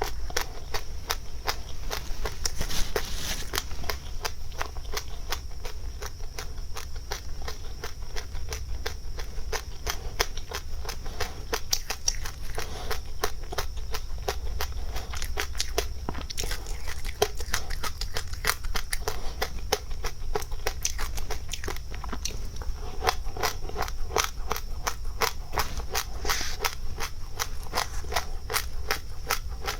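Dry seeds being crunched and chewed close to the microphone: a dense run of small crackling clicks, many a second, over a steady low hum.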